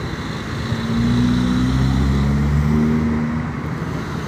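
A motor vehicle's engine passing close by, swelling in about a second in and fading away about two and a half seconds later, over steady street traffic noise.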